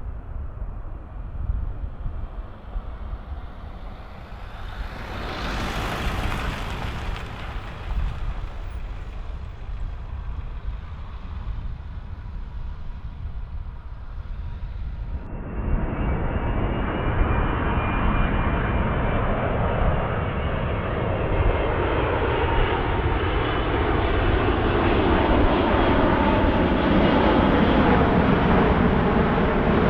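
Jet airliner engines on a landing approach, with a low rumble of wind on the microphone. One jet swells and fades about five to seven seconds in; after an abrupt cut about halfway through, louder jet noise with a steady whine builds toward the end.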